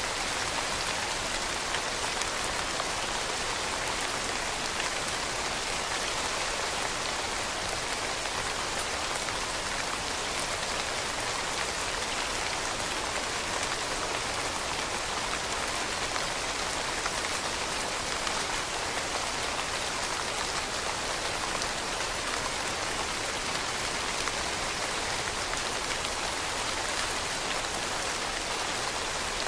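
Steady rain falling on leaves: a dense, even hiss of many small drop patters with no breaks or changes.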